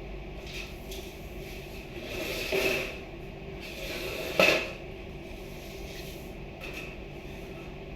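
A scraping rustle about two seconds in, then a single sharp knock a little after four seconds, like a cupboard door or drawer being handled, over a steady low background hum.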